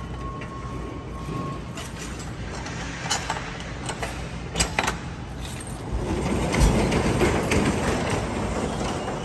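An engine running steadily while pallets are loaded, with a few sharp knocks and clatter, growing louder and rougher from about six seconds in.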